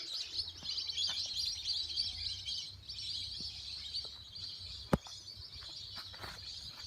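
A flock of birds chirping and calling over one another in a dense, continuous chatter. A single sharp click sounds about five seconds in.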